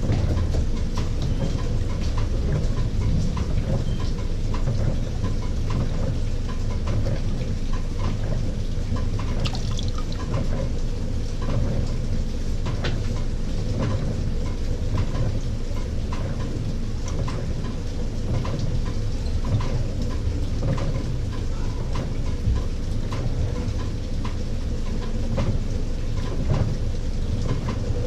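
LG 18 kg top-load washing machine running a delicate cycle: a steady low rumble with water sloshing and splashing irregularly in the tub.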